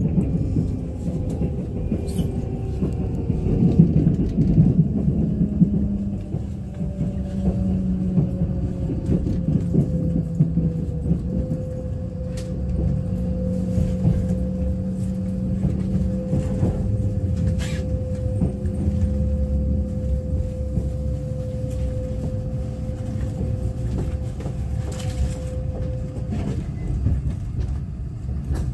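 Kintetsu limited express train heard from inside the carriage as it slows into a station. The running gear rumbles steadily under a motor whine that sinks a little in pitch, holds, and dies away near the end as the train comes to a stop, with a few sharp clicks as the wheels cross the points.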